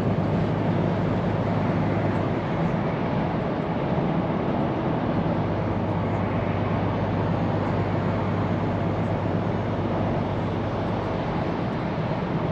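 Scania P410 truck's diesel engine running steadily under way, with road and tyre noise, at an even pitch and level throughout.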